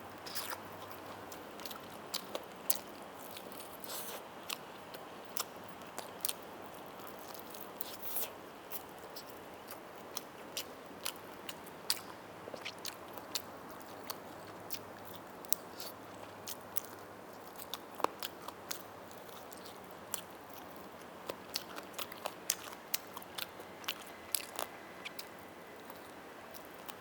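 Someone biting and chewing roast chicken, with many sharp, irregular crunching clicks from the crisp skin and meat.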